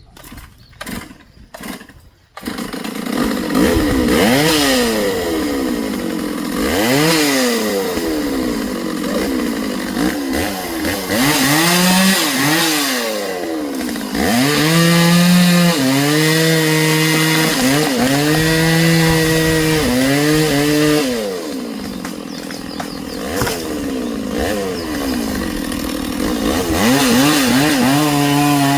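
A few faint knocks, then a chainsaw starts up about two seconds in and is revved up and down again and again, running loud at steady high revs for stretches while cutting tree branches.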